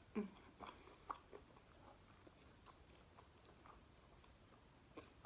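Quiet eating sounds: a few sharp bite and chew clicks in the first second and a half, then faint scattered chewing and one more click near the end.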